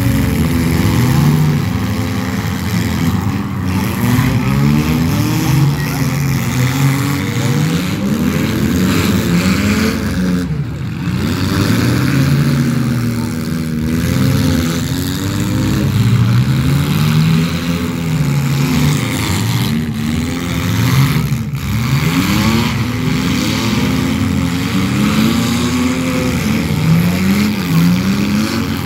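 Demolition derby cars' engines revving hard again and again, their pitch climbing and falling every second or two as the cars push and ram each other on the track.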